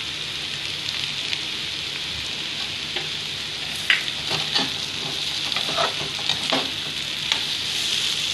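Potato, paneer and pea stuffing sizzling as it fries in a kadhai. From about four seconds in, a metal slotted spoon stirs it, clicking and scraping against the pan.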